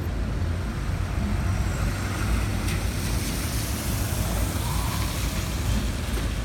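Road traffic on a rain-wet street: vehicle engines with a steady low rumble and the hiss of tyres on the wet road, swelling around two to four seconds in as a vehicle passes.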